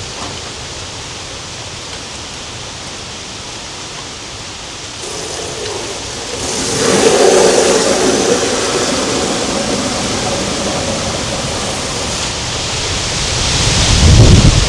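Rushing storm noise of wind and rain that swells about halfway through, with a deep rumble building near the end.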